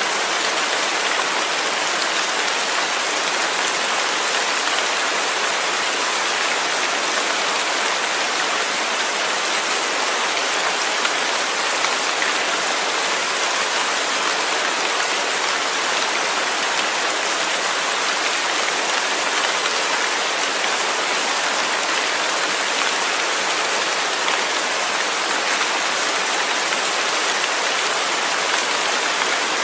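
Steady heavy rain falling, a dense, even hiss of drops.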